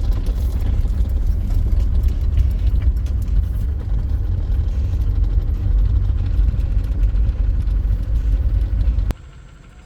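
Car engine running with a heavy low rumble that cuts off abruptly near the end.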